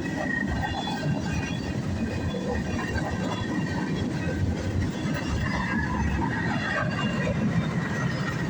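Freight cars of a CSX mixed freight rolling past: a steady rumble of wheels on rail, with faint high squeals from the wheels.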